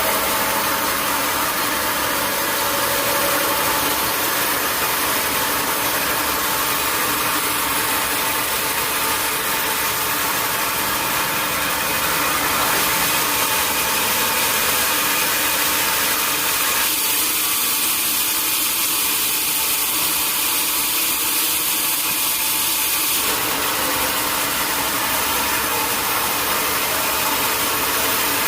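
Sawmill machinery running steadily: a continuous engine-like drone with a strong hiss. For a few seconds past the middle, part of the sound's middle range dips and then comes back.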